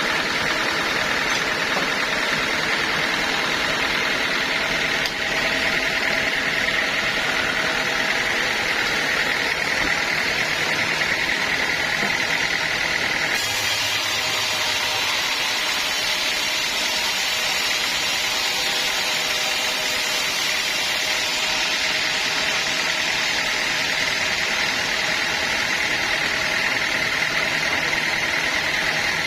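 Sawmill machinery running steadily: a continuous mechanical noise with a steady whine, changing character slightly about halfway through.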